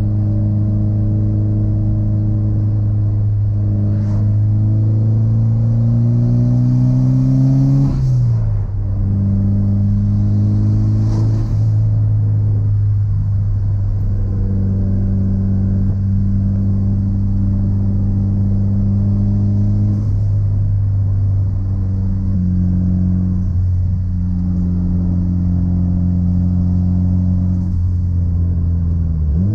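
Mitsubishi Lancer Evolution's turbocharged four-cylinder engine idling while it warms up. Its pitch climbs slowly for a few seconds, drops back about eight seconds in, and shifts slightly a few more times later on.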